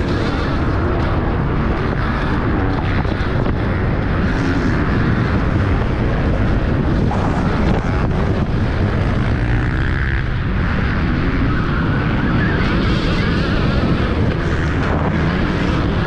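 Loud steady rush of wind across the microphone while riding at speed, with a vehicle's running noise underneath.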